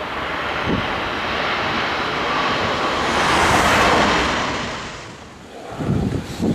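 A jet airliner passing close by, its engine noise swelling to a peak about three and a half seconds in and then fading away. Gusty wind buffets the microphone near the start and again near the end.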